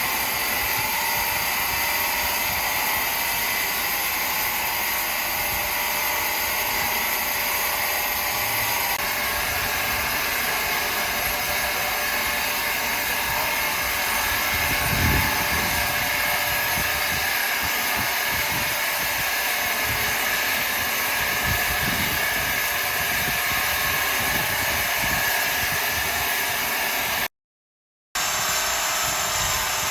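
Sawmill saw running steadily, a high whine over a hiss that breaks off for under a second near the end.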